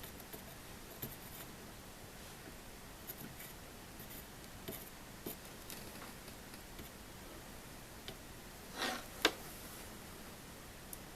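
Quiet small-tool handling during hand soldering on a circuit board: faint scattered clicks and taps, then a short scrape and a sharp click about nine seconds in.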